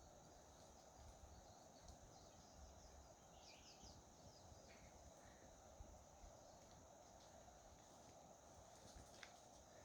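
Faint outdoor ambience: a steady insect drone, with a few brief high bird chirps about three and a half to five seconds in.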